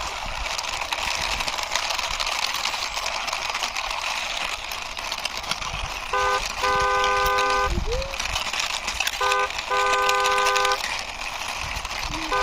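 Car horn honking, a short toot then a longer one, twice, over a steady hiss.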